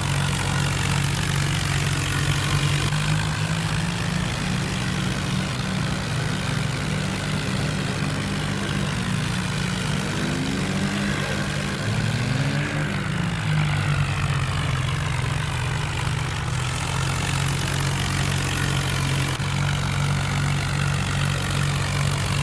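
Tractor engine running steadily throughout, with a brief rise and fall in pitch near the middle.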